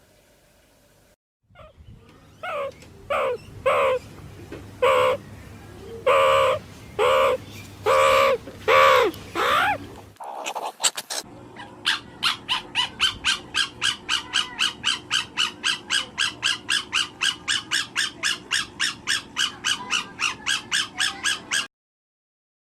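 Bird calls: about nine loud, harsh separate calls, then after a short pause a long fast run of short calls, about four a second, that stops suddenly near the end.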